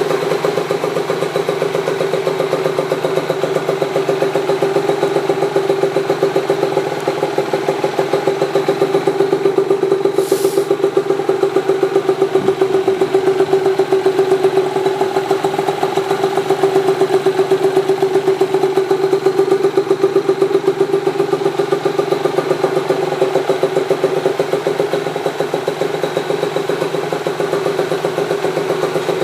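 Yamaha TZR50R's 50 cc two-stroke single idling steadily through an aftermarket expansion-chamber exhaust. A brief hiss sounds about ten seconds in.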